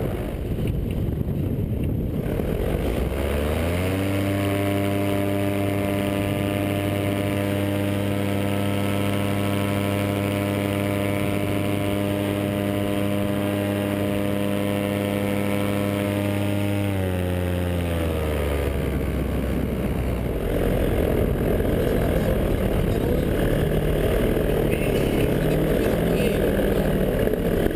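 Vittorazi Moster 185 single-cylinder two-stroke paramotor engine running up from low speed about three seconds in, holding a steady high-rpm drone for about thirteen seconds, then throttling back down. In the last third it turns into a louder, rough, unpitched rumble without a clear tone.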